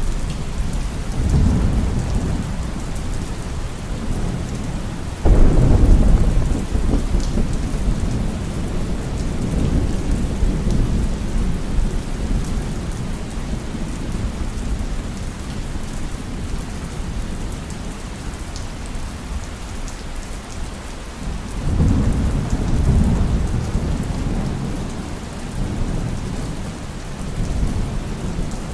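Heavy rain falling steadily, with rolling thunder: a sharp crack about five seconds in that rumbles away over a couple of seconds, and another long rumble swelling up about two-thirds of the way through.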